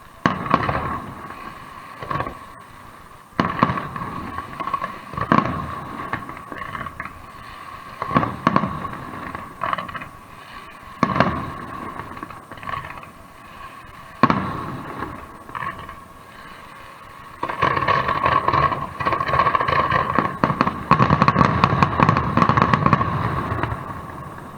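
Aerial fireworks exploding: single bangs a couple of seconds apart with echoing tails, then, about two-thirds of the way in, a dense barrage of rapid bangs and crackling that fades near the end.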